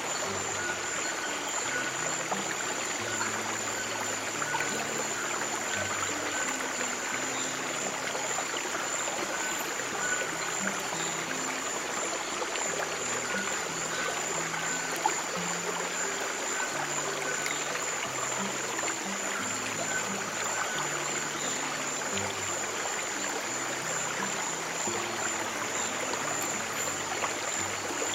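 Running stream water in a steady rush, laid over soft, slow piano notes in the low register and a constant high tone.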